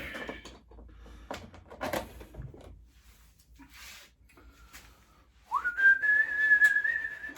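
A few light clicks and knocks from handling parts, then near the end a single whistled note that slides up and holds steady for about two seconds.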